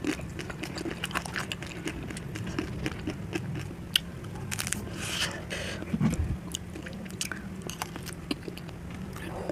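Close-up mukbang eating sounds: a person biting and chewing food, with many small sharp clicks and smacks of the mouth.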